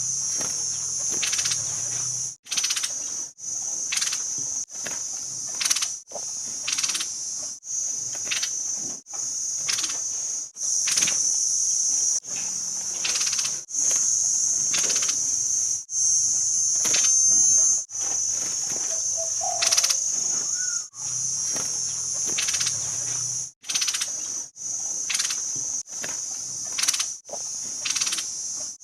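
A steady high-pitched insect buzz, broken by short drop-outs every second or two, with brief sharp chirps over it.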